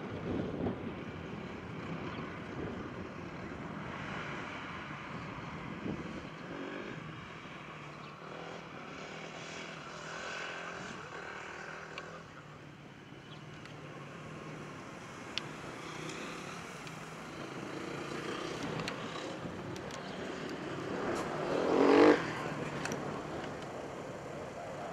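Subaru BRZ sports cars' flat-four engines running on a small racing circuit, swelling and fading as they pass. Near the end, one engine close by rises sharply in pitch and loudness.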